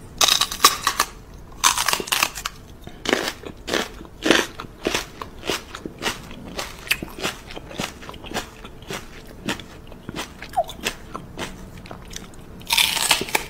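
Crunchy chewing and biting sounds: irregular crisp crunches, a couple a second, loudest in the first couple of seconds and again in a dense burst near the end.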